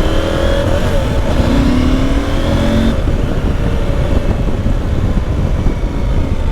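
Motorcycle engine accelerating, its pitch rising with a step at a gear change about a second and a half in. After about three seconds the engine tone drops away under a steady low rumble of wind and road noise.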